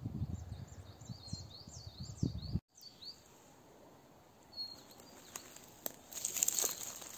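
Small birds chirping in quick repeated calls over low thuds and rustling; the sound cuts out abruptly about two and a half seconds in, leaving a faint outdoor background with a few clicks.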